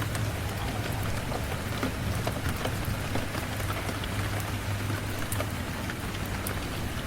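Steady rain, with scattered sharp clicks over an even hiss and a low steady rumble underneath.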